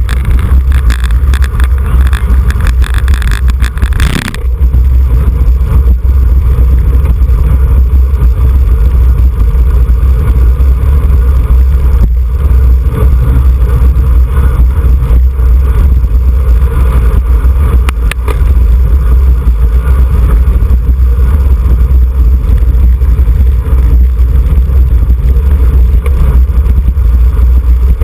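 Wind buffeting the microphone of a camera riding on a racing bicycle: a loud, steady low rumble. A brighter hiss over it for the first four seconds cuts off suddenly.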